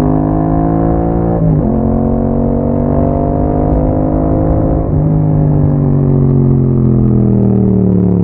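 A 2021 Yamaha MT-07's parallel-twin engine running through an Akrapovic exhaust while riding, a steady engine note heard from the bike. The note breaks briefly about a second and a half in and again about five seconds in, then its pitch falls slowly as the rider eases off.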